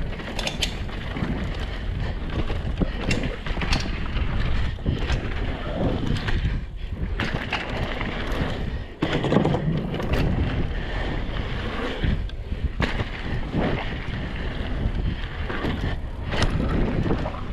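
Hardtail mountain bike ridden fast down a dirt jump trail: wind rushing over the microphone and tyres on dirt, with frequent short clatters of the chain and frame over bumps and landings.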